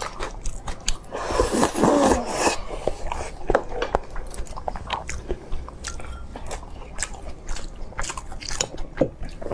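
A person biting and chewing crunchy food, with many short sharp crunches and a denser burst of crunching about two seconds in.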